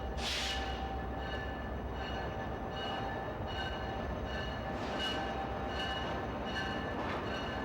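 A train running: steady rumble and rail noise, with higher tones that come and go in short repeats.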